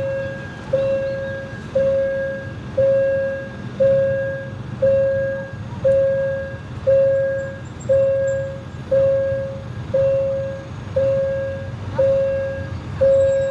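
Railway level-crossing warning bell ringing steadily, one clear note about once a second, each strike fading before the next, over a low rumble.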